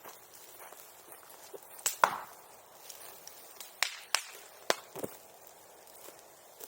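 Bonfire crackling, with bamboo in the fire giving sharp firecracker-like pops: a loud double crack about two seconds in and several more near four and five seconds in.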